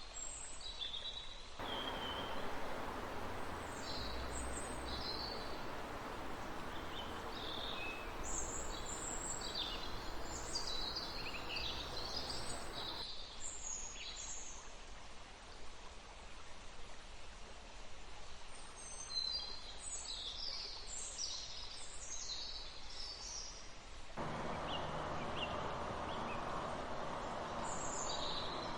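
Many small forest birds chirping and trilling in quick, overlapping high calls. Under them a stream runs with an even rushing, which cuts in and out abruptly in a few stretches.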